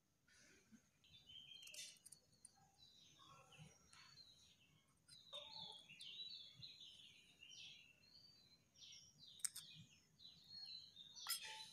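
Faint birdsong: small birds chirping in quick, varied calls, with a few light taps, the loudest near the end.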